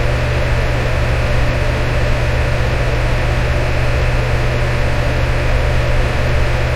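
Electric fan running steadily: an even whooshing hiss over a low motor hum, with no change throughout.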